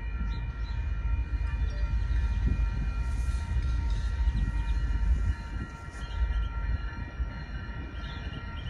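A train rolling past with a heavy low rumble. The rumble drops off sharply a little over five seconds in and carries on more quietly.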